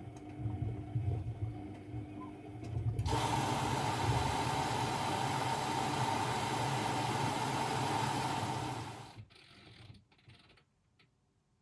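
Constructa Energy 1000s washing machine running with a low rumble. About three seconds in, a loud steady hiss starts suddenly and lasts about six seconds, then cuts off and leaves the machine nearly quiet.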